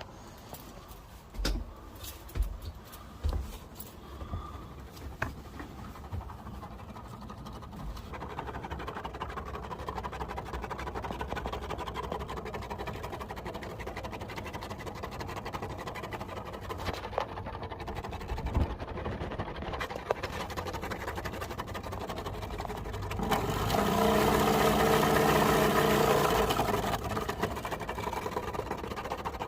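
A strange noise in a bathroom: a few knocks, then a steady rushing that swells about two-thirds of the way in into a loud, pitched, horn-like drone before easing back.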